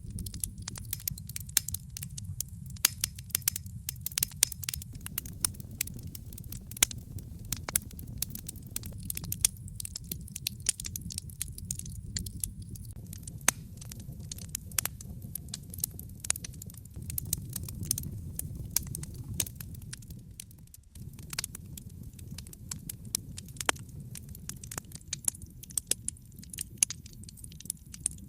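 Wood fire burning in a fireplace: irregular sharp crackles and pops over a steady low rumble of the flames. The rumble briefly drops out about three-quarters of the way through.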